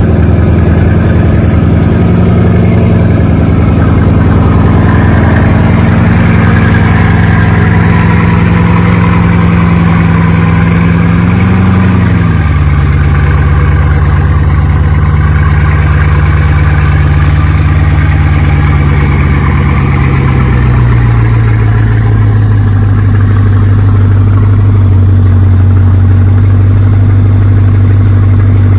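Bugatti Chiron's quad-turbocharged 8.0-litre W16 engine idling fast just after a cold start. The idle steps down in pitch about twelve seconds in and again about twenty-one seconds in, as it settles toward a warm idle.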